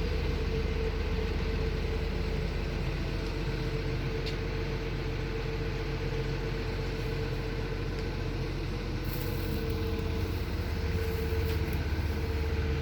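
Excavator's diesel engine running steadily while it digs, with a steady mid-pitched whine over the low engine drone and a few faint clicks.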